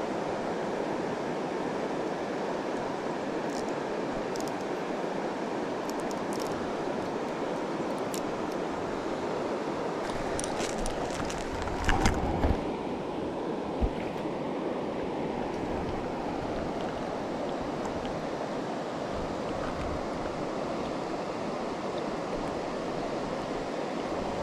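Steady rushing of a mountain river's flowing water. A few handling thumps come about halfway through.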